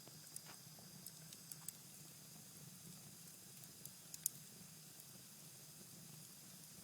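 Cherry-wood fire burning in a fireplace: a faint steady hiss with sparse, sharp crackles and pops, the loudest about four seconds in.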